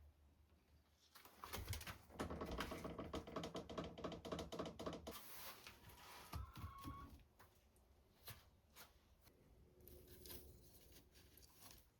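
A rapid run of small clicks and taps starting about a second in, thinning out to scattered clicks after about five seconds.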